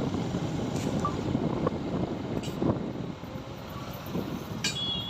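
Motorcycle running and road and wind noise while riding through town traffic. A high, steady electronic tone starts near the end.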